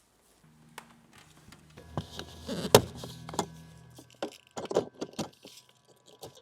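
A run of clicks, knocks and rattles from hard parts being handled, the loudest a sharp knock a little under three seconds in.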